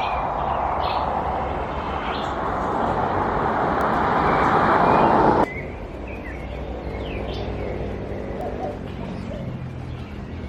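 Birds calling in short chirps over a loud, even rushing noise that grows louder and then cuts off abruptly about five and a half seconds in. After that the calls continue against quieter background.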